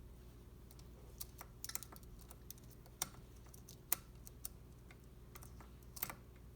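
Scattered light clicks and taps of engine parts and tools being handled during piston and connecting-rod installation, the sharpest about three, four and six seconds in, over a low steady hum.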